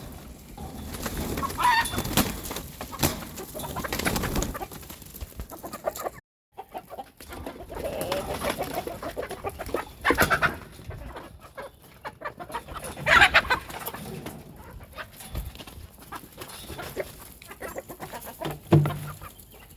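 Chickens clucking and calling, with scattered clicks and knocks between the calls.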